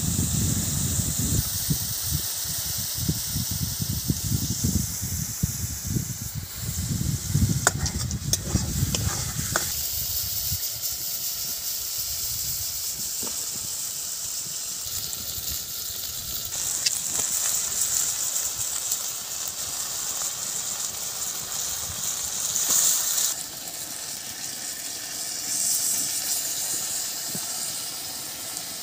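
Spice paste and oil sizzling in a wok with a steady hiss. There is a low rumble through the first ten seconds or so, and a few sharp clicks about eight to nine seconds in.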